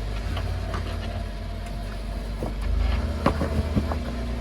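Off-road Jeep running slowly with a steady low engine rumble, and a few sharp knocks and clicks in the second half.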